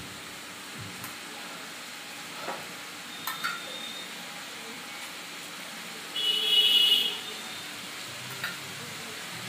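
Flatbread cooking on a cast-iron tawa, with a faint steady sizzle as oil is spread over it with a steel spoon, and a few light clicks of the spoon on the pan and bowl. About six seconds in comes a brief, loud, high-pitched squeal.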